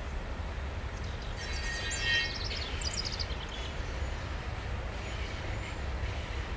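A songbird sings one quick, high, twittering phrase about a second and a half in, over the steady low rumble of a long freight train rolling past.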